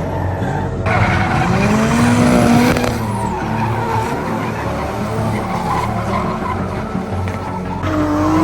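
Drift car on track, its engine revving up and easing off while the tyres skid and squeal. The engine pitch climbs from about a second in and falls away near the three-second mark.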